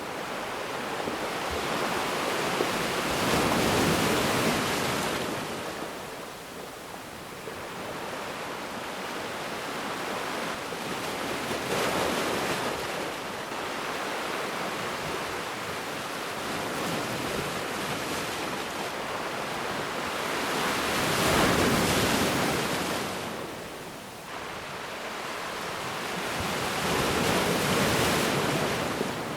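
Ocean waves breaking on a beach. Four waves swell and fall away in slow surges several seconds apart, the loudest about two thirds of the way through.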